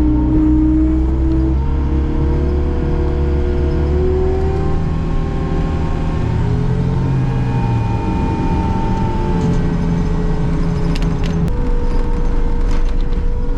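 An engine running steadily, its pitch drifting slightly up and down, with a few sharp clicks near the end.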